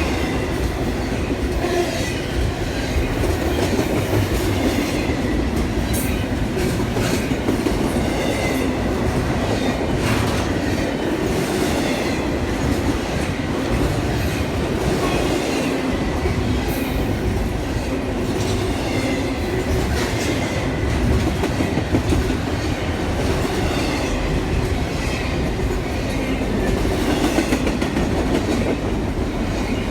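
A train rolling past on the tracks: a steady rumble of steel wheels on rail with repeated clicks over the joints.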